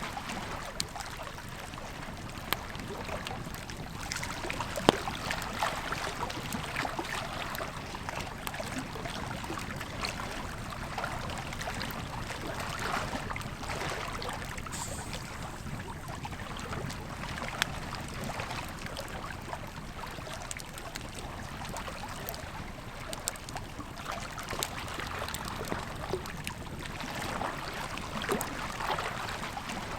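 Campfire crackling, with sharp wood pops scattered throughout (the loudest about 5 seconds in and again near 18 seconds), over the steady rush of a river.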